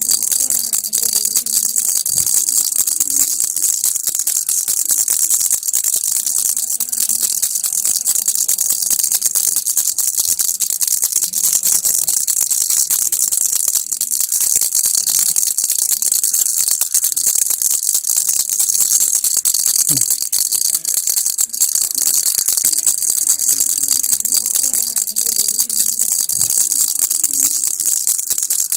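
Baby rattle shaken continuously, a dense, steady rattling without pause.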